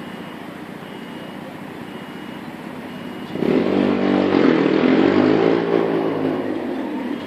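Train passing close by the platform: a loud rush with a motor whine begins suddenly about three and a half seconds in, rises and then falls in pitch, and fades toward the end.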